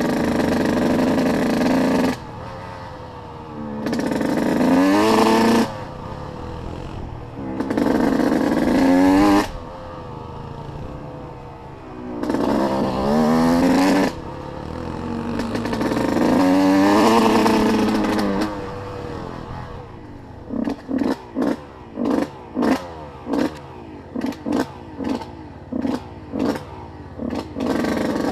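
Off-road dirt bike engine revving hard in repeated bursts, each climbing in pitch and then cutting off sharply. In the last third comes a run of short, quick throttle blips, about two a second.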